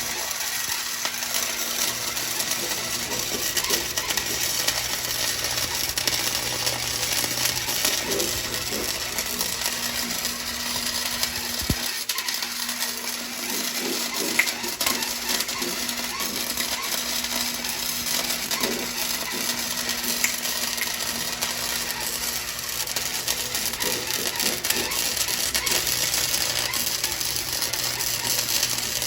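Arc welding on car exhaust tubing: a continuous crackling, sizzling hiss over the welder's steady low hum.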